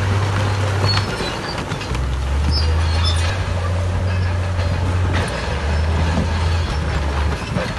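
Heavy diesel earthmoving machinery running under load. The low engine drone changes pitch several times over a noisy rumble, with a few metallic knocks and short high squeaks.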